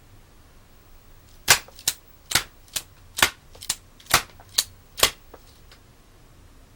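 Homemade rubber-band pistol firing five shots in quick succession, each a sharp snap, with a softer click from the mechanism between shots.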